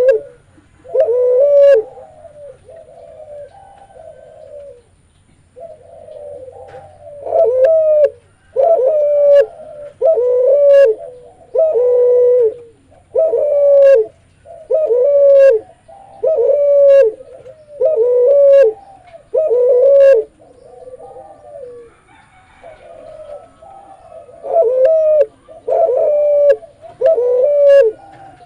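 Cuhu, a hybrid of a spotted dove (derkuku) and a ringneck dove (puter), cooing in a deep voice: a long run of repeated coo notes, about one a second, softer for a few seconds near the start and again about two-thirds of the way through.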